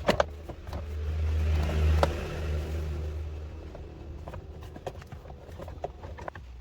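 Low engine rumble that swells over about a second and fades again, like a vehicle going by, with sharp metallic clinks of tools at the start and scattered later.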